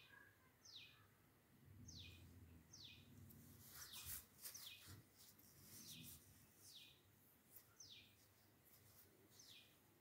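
Faint, near-silent room with a bird repeating a short, falling chirp roughly once a second. Faint scraping clicks come in the middle as a spoon presses the chutney pulp against a steel strainer.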